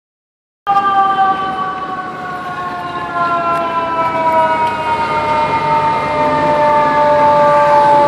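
Fire truck siren sounding one long tone that starts abruptly about a second in and slides slowly down in pitch.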